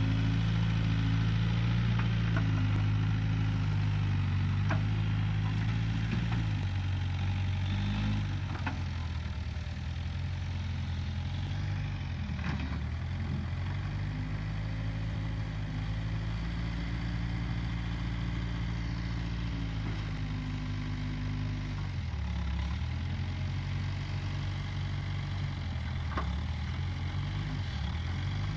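Case 580G backhoe loader's diesel engine running steadily, its note dropping and picking up again several times as the load changes while it works. A few faint sharp cracks come through over the engine.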